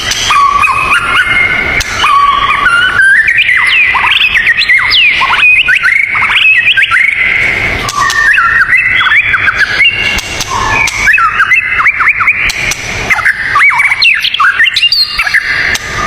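Songbird singing a fast, varied run of whistled notes, quick upward and downward sweeps and trills, without a break.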